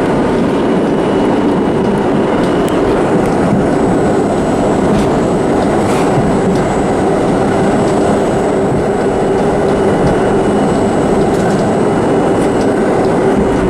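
Vintage New York City subway train running on the rails: a loud, steady rumble with a low steady hum and scattered light clicks.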